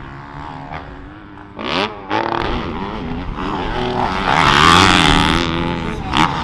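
Dirt bike engine revving up and down on the track, getting louder from about two seconds in and loudest a little past the middle.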